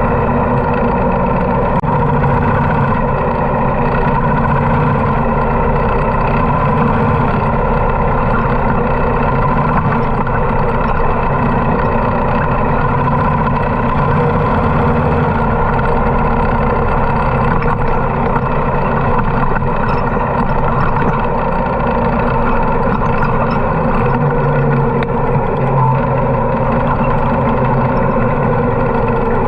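Harley-Davidson motorcycle engine running steadily while riding, with no big changes in engine speed.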